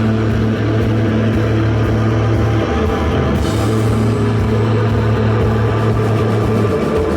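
A live rock band playing loud, dense music, a steady low droning note held underneath.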